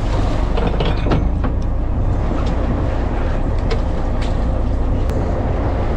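Steady low rumble of a fishing boat at sea: engine running with water and wind noise, and a few faint clicks.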